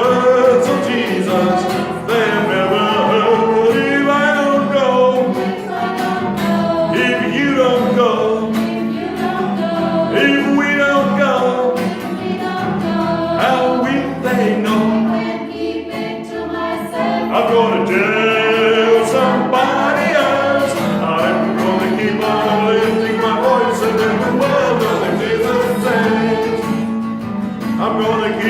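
Choir singing an upbeat gospel song over instrumental backing that includes guitar.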